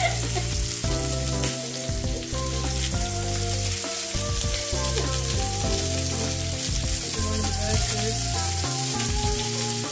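Prosciutto-wrapped chicken breasts sizzling steadily as they sear in hot oil in a cast iron pan.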